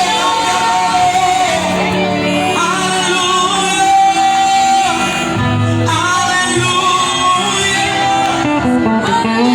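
Live worship band playing a song with a singer and guitar.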